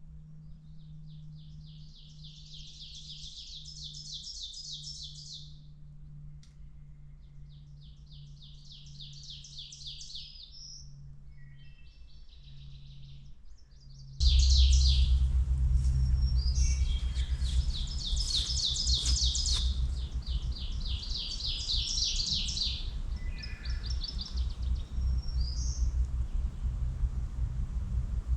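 Ovenbirds singing loudly close by: phrases of rapidly repeated notes that build in strength over a few seconds, repeated several times with pauses between, among other woodland birdsong. About halfway through, a low rumbling noise comes in suddenly and stays under the song.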